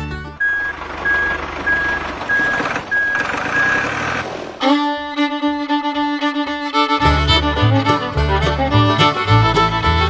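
A repeating single-tone beep, about two beeps a second, over a steady rushing noise, like a vehicle's reversing alarm, for about the first four and a half seconds. It gives way to upbeat fiddle music with a steady bass beat.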